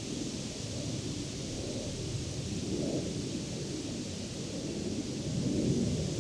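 Wind blowing through leafy trees and grass: a steady rustle of leaves under a low rumble of wind that swells in gusts about three seconds in and again near the end.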